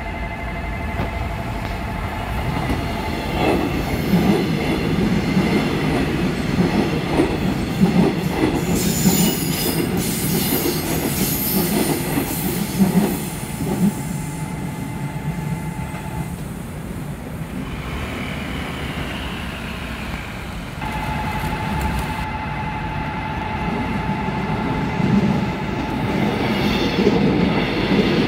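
Korail electric commuter train running through a level crossing, its wheels rumbling and clattering on the rails, growing louder near the end as the cars pass close by. A steady ringing tone from the crossing's warning signal sounds under it at the start and again in the second half.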